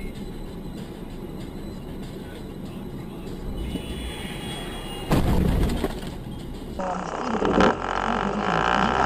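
Steady road and engine rumble heard from inside a moving car, then a sudden loud crash about five seconds in: a vehicle collision.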